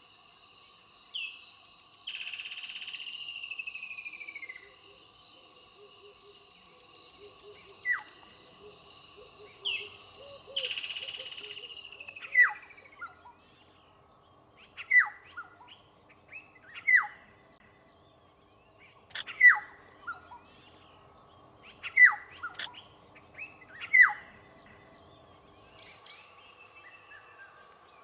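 Wild bird calls: two harsh, falling calls early on, then a loud, sharp down-slurred call repeated about every two and a half seconds, over a steady insect drone.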